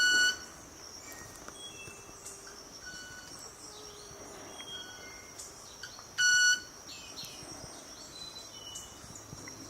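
Club-winged manakin making its violin-like wing sound, produced by rubbing its wing feathers together: two short, buzzy, pitched notes, one at the start and one about six seconds later. Between them a steady high insect hum and small chirps from other birds.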